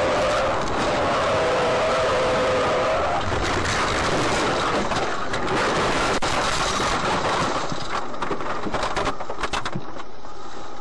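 Road and engine noise of a moving vehicle, with two long steady tones in the first three seconds, then a run of clicks and knocks near the end.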